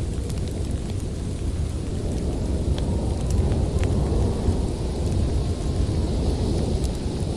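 Storm wind blowing as a steady low rumble, with scattered sharp crackles and pops of a wood fire burning in a fireplace.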